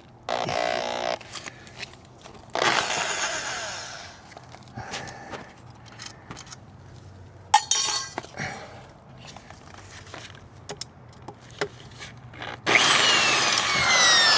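Hand-tool work on plastic body panels and fasteners: short bursts of scraping and rattling and a few sharp clicks. Near the end a power tool starts and runs steadily, its whine falling in pitch.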